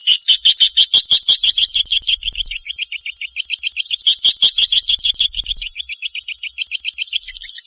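Swiftlet calls on a swiftlet-house lure recording: a loud, rapid chirping twitter of about eight chirps a second. About seven seconds in, the chirps turn shorter and tighter.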